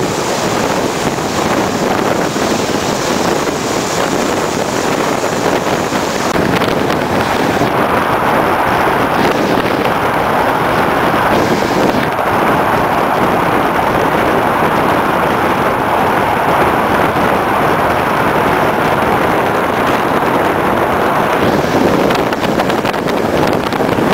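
Wind rushing past an open window of a moving passenger train, mixed with the train's running noise; loud and steady. The hiss turns duller from about eight seconds in until near the end.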